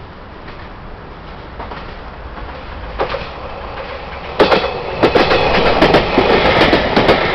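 JR Kyushu train approaching and running over a level crossing: a rumble building, then from about four seconds in, a loud, rapid clatter of wheels clicking over the rail joints.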